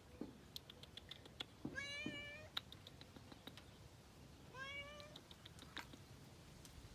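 Domestic cat meowing twice, each a short call that rises and then holds. Scattered sharp clicks from the cat moving on crackly mulch run through it.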